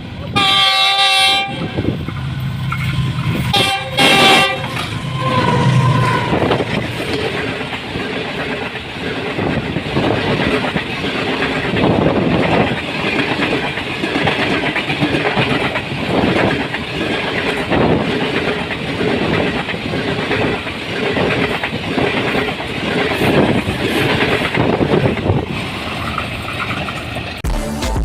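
Green Line Express locomotive horn sounding two blasts in the first few seconds, then the train passing at speed: a long, loud rush of wheels on rails with rapid clickety-clack over the rail joints.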